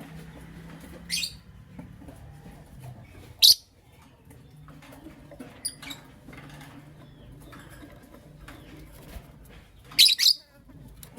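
Lovebirds giving short, sharp, high chirps: single calls about a second in, at three and a half seconds and near six seconds, and a loud double chirp near the end, over a faint low hum.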